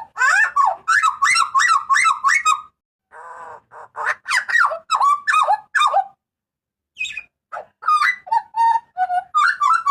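Butcherbird (jagal papua) calling loudly in quick runs of short, sharp notes, about four a second. The runs break off twice, then give way to a few lower, steadier notes.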